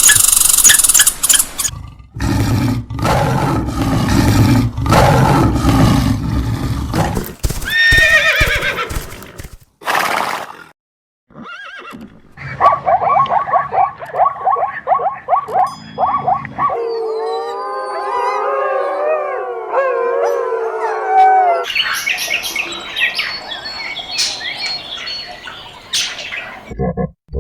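Horses neighing and whinnying: a series of separate calls with short gaps between them, some with a fast trembling pulse, others sliding up and down in pitch.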